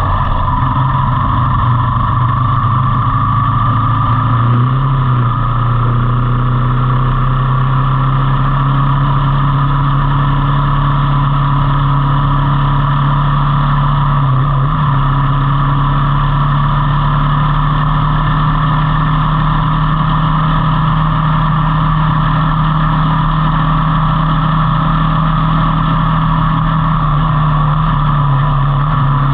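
Motor vehicle engine running steadily, its pitch rising a step about five seconds in and then holding.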